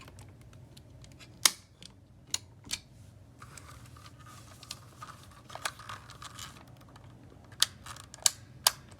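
Handling noises: a few sharp clicks and taps, with a stretch of rustling between them, over a low steady hum.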